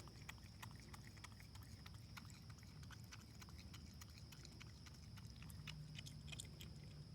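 A raccoon chewing, heard as faint, irregular clicks.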